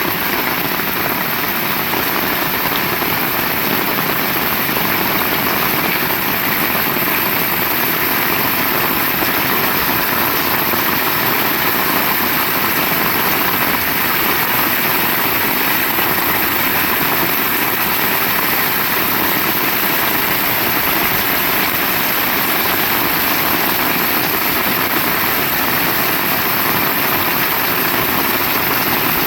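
Heavy rain falling, a loud, steady, even hiss with no let-up.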